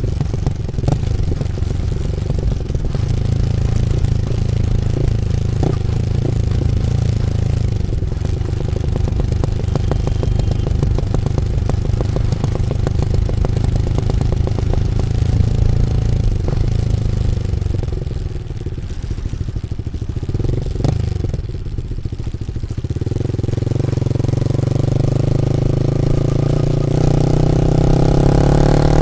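Yamaha MT-15 V2's 155 cc single-cylinder engine running through an Akrapovic full exhaust system. It holds a steady note, eases off and drops in level about two-thirds of the way in, then picks up again with its pitch climbing steadily near the end.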